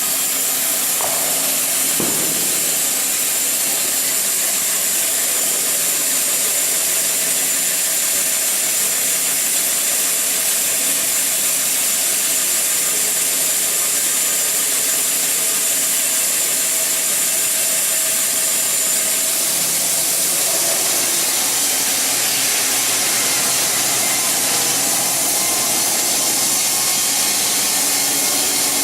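Portable narrow-blade bandsaw mill running steadily and sawing through a log, a continuous loud hissing whir with a single click about two seconds in.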